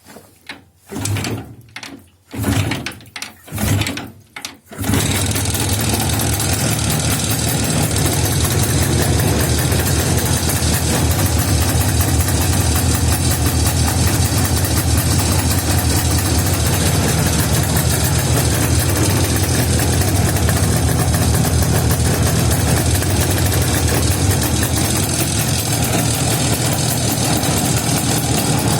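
IZh Jupiter two-stroke twin motorcycle engine being started: several short bursts, then it catches about five seconds in and runs steadily. It is fitted with a newly installed two-channel contactless electronic ignition from a VAZ car.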